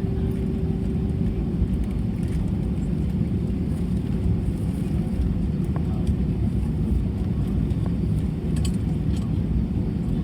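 Steady low rumble inside an Airbus A320 cabin with the engines running at idle before takeoff, heard from a passenger seat. A faint steady hum fades out about two seconds in.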